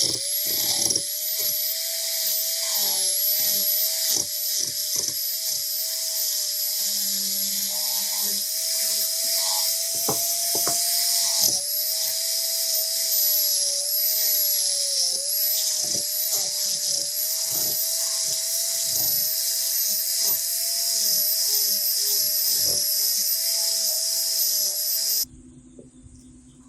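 Small high-speed electric rotary tool running and grinding. Its whine dips and wavers in pitch as it is pressed into the work, with a steady hiss and scattered ticks, and it stops suddenly near the end.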